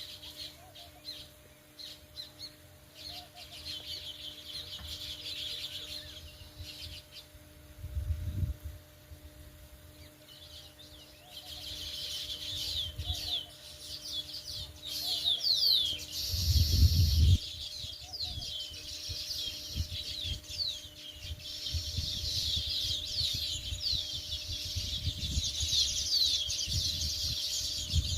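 A flock of sparrows chirping and chattering in dense, rapid overlapping calls, thinning out for a few seconds about a third of the way in. There are two low thumps, one about a third of the way in and a louder one just past the middle.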